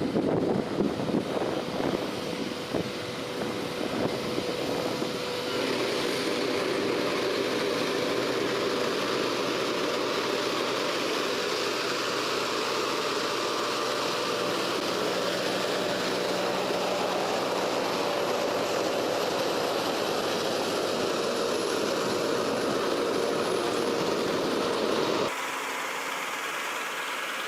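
Heavy vehicle engine running steadily. The sound changes abruptly twice: about five seconds in and again near the end.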